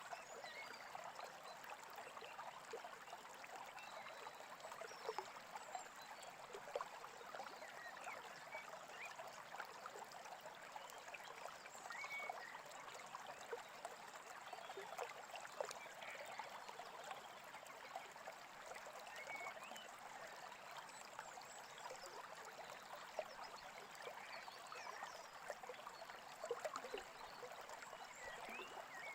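Small brook babbling and trickling steadily and faintly, with a few short bird chirps now and then.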